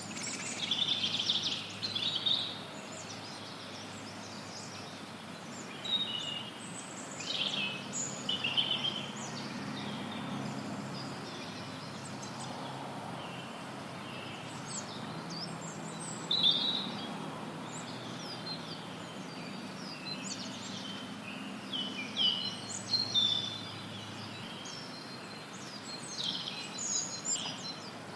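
Forest songbirds singing in scattered short phrases of chirps and trills over a steady hiss of white noise. Bird phrases come in clusters about a second in, around six to nine seconds, around sixteen seconds, and again in the last third.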